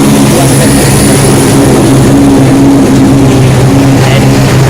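Diesel train engine running steadily close by, a loud, even drone with a faint high whine above it.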